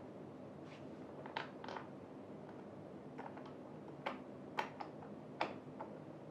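Scattered light clicks and taps of gaming-chair parts being handled during assembly, with a few sharper clicks around four to five and a half seconds in, over a faint steady hum.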